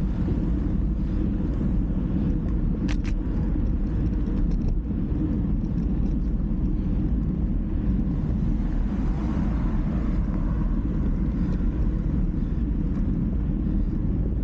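Steady low rumble of wind and road noise buffeting the microphone of a moving bike, with a brief tick about three seconds in.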